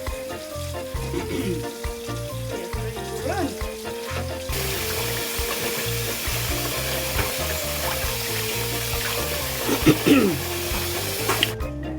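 Cicadas frying in a hot pan, an even sizzle that grows louder about four seconds in and cuts off abruptly near the end, over background music.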